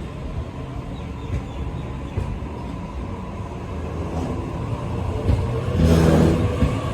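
Sydney electric suburban train rolling through the station with a steady low rumble, which grows louder near the end.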